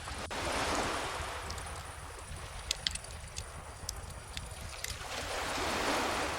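Calm ocean waves washing in, one swell about a second in and another building near the end, with a wood fire crackling in scattered sharp pops and snaps.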